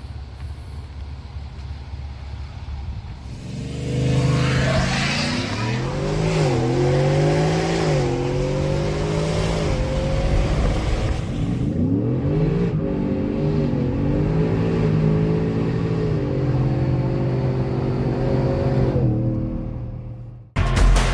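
Whipple-supercharged Ford F-150 V8 pulling hard after a low rumble. About four seconds in, the engine note climbs and drops through several gear changes, then holds at a steady high pitch before fading out.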